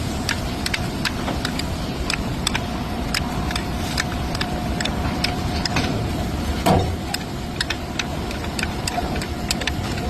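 Hyundai car engine running steadily, with irregular light ticking and one heavier knock about seven seconds in.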